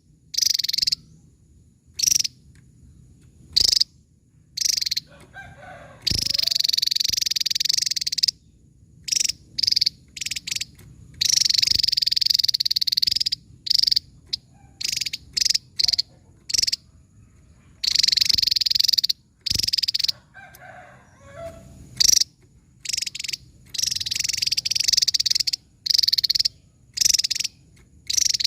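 Javan tesia singing: a run of short, sharp, high-pitched notes broken by longer buzzy trills lasting a second or two, with brief pauses between phrases.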